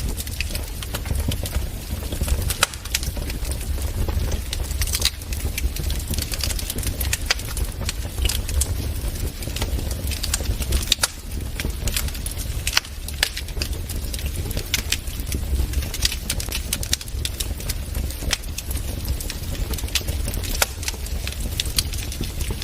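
Wood fire crackling in a fireplace: frequent, irregular sharp pops and snaps of varying loudness over a steady low rumble.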